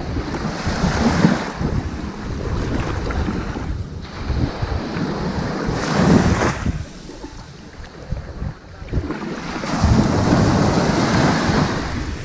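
Ocean waves breaking and washing up a sand beach in repeated surges of noisy wash. The sharpest surge comes about six seconds in, then a short lull before a long swell near the end. A low rumble sits underneath throughout.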